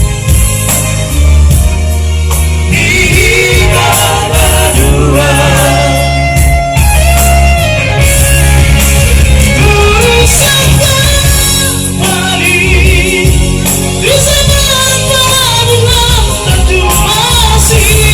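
Batak song sung by a vocal trio over a band with strong bass, the voices holding long notes with vibrato.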